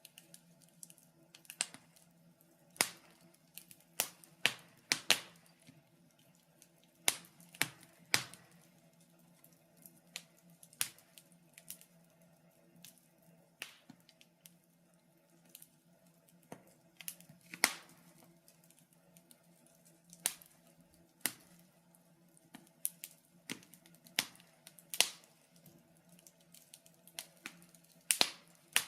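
Wood fire burning in a fireplace, crackling with irregular sharp snaps and pops, a few every couple of seconds, over a faint steady low hum.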